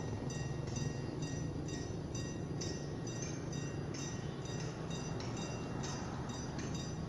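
Diesel passenger train running slowly in a shunting move, a steady low engine hum, with a short, rhythmic, ringing high-pitched sound repeating about two to three times a second over it.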